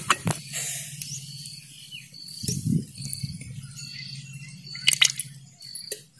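Birds chirping in short high calls, with a few sharp knocks and clicks and a steady low hum underneath.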